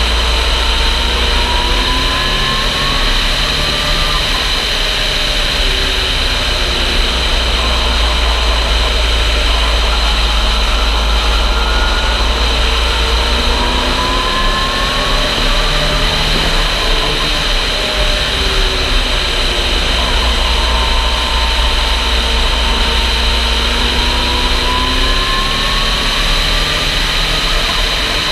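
Stock car's 400-horsepower V8 engine running at speed around an oval. Its pitch climbs several times as the car accelerates out of the turns, over a heavy, steady rush of wind noise.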